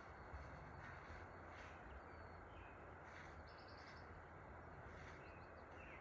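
Faint outdoor ambience, a steady low hiss and rumble, with a few brief distant bird chirps, one a quick run of notes about halfway through.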